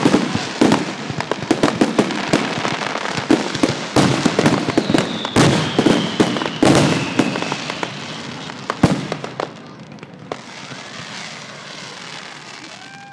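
Dense barrage of fireworks and firecrackers, rapid cracks and bangs over a continuous crackle, with a whistle falling slowly in pitch from about five to seven seconds in. After about ten seconds it thins to scattered, fainter pops.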